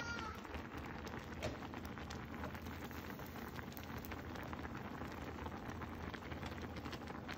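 Pot of saucy topokki broth with noodles and rice cakes bubbling on the boil: a steady fizzing with many small pops.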